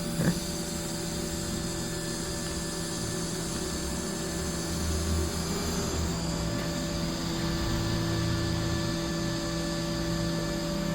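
Steady electrical hum and buzz from TIG welding equipment, with a short click about a quarter second in.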